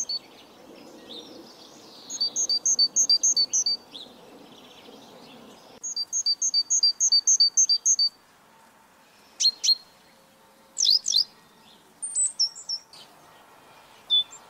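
A songbird singing: three runs of quick, evenly repeated two-note phrases, a high note then a lower one, each run lasting about two seconds, followed by a few short, sharply sweeping chirps. A low background rumble underneath drops away about six seconds in.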